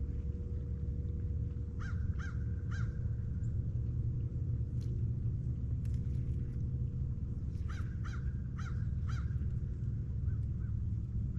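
Crows cawing, a run of three caws about two seconds in and four more around the eight-second mark, over a steady low rumble.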